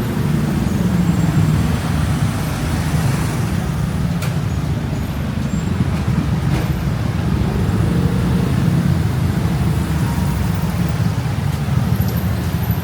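Steady city street traffic: a continuous low rumble of vehicle engines and tyres, with two faint clicks partway through.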